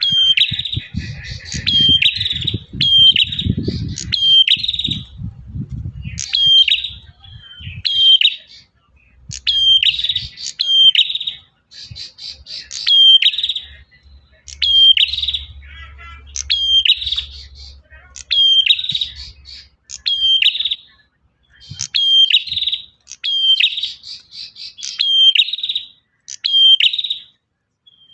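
Male prinia (prenjak) singing: a loud, sharp chirping phrase repeated about once a second, the male's call to a female. A low rumble runs under the first several seconds.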